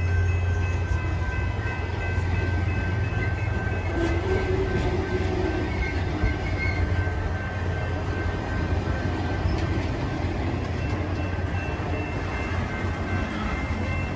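A train rolling by: a steady rumble of railroad cars moving along the track.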